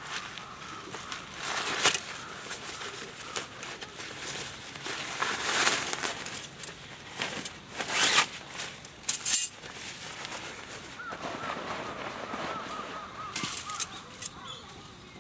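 Birds calling, with a quick run of repeated chirps from about eleven seconds in, and several short bursts of rustling noise.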